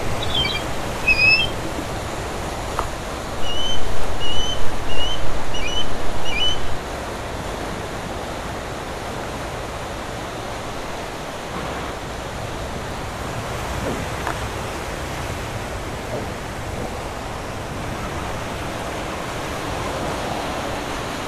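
Surf breaking in a steady wash, with seagulls calling over it: a few short calls at the start, then a quick run of about seven calls a few seconds in.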